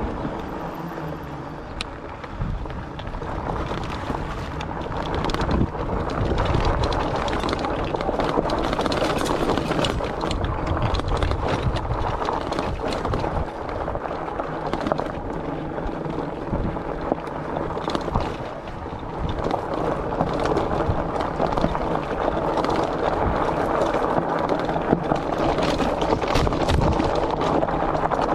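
Wind buffeting the microphone of a chest-mounted camera while riding a fat-tyre e-bike, over a steady rumble of the tyres on the path. Frequent short clicks and knocks come from the bike as it rolls.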